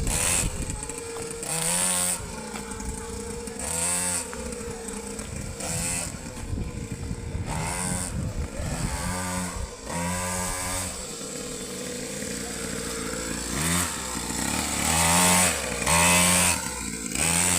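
Motocross bike engine revving up and easing off again and again as it is ridden, its pitch rising and falling with louder surges every couple of seconds.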